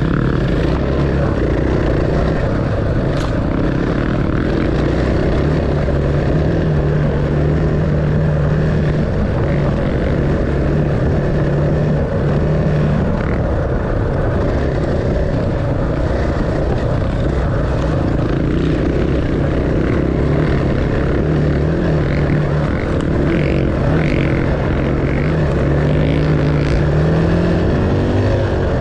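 Dirt bike engine running at a fairly steady speed, its drone holding a mostly even pitch over a heavy rumble.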